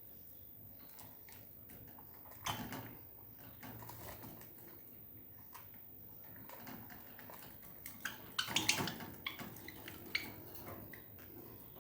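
Budgies moving about, with scattered light pecks and taps, and louder scuffling bursts about two and a half seconds in and again around eight to nine seconds in.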